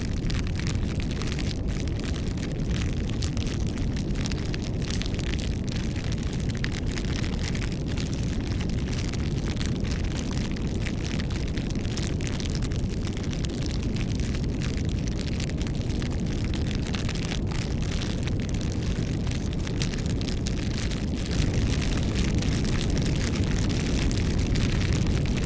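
Bonfire burning: a steady low rumble of flames with many small crackles and pops, a little louder from about 21 seconds in.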